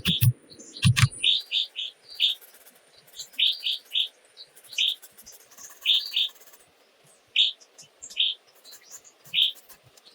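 A small bird chirping: short, arching chirps repeated singly and in quick groups of two or three, over a faint hiss. A few low thumps and clicks come in the first second or so.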